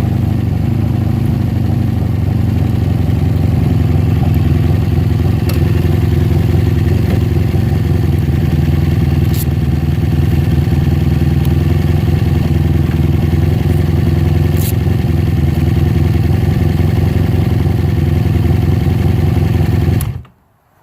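1982 Honda Magna's V4 engine running steadily through new Emgo aftermarket mufflers; the sound stops abruptly near the end.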